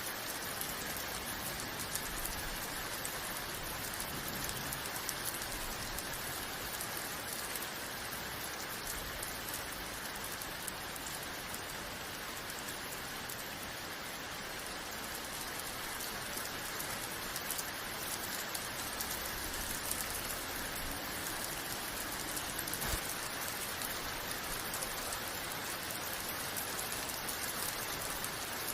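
Steady rain falling on a surface, a dense even hiss with many fine drop ticks, unchanging throughout.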